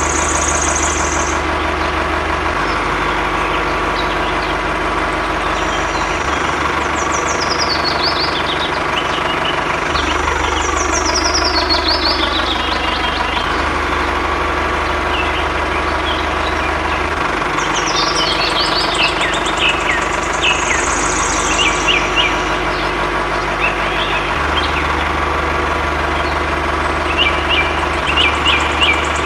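A motor runs steadily, making an engine-like hum with a low throb that shifts every few seconds. Birds chirp over it at times, with falling trills twice and short chirps near the end.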